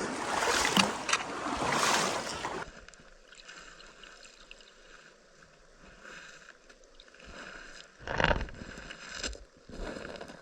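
Legs wading through knee-deep creek water, sloshing and splashing in surges with each stride. After about two and a half seconds it drops to a faint rush of the creek, with one more short splash about eight seconds in.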